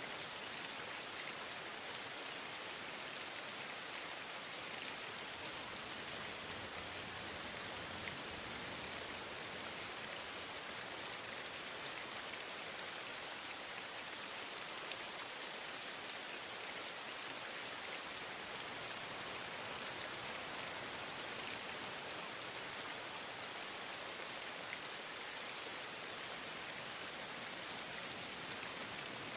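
Steady rain falling, with scattered faint drop ticks over an even hiss.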